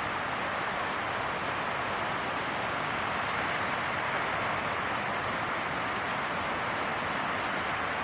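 Steady rushing noise of ocean surf and wind, even throughout with no single wave standing out.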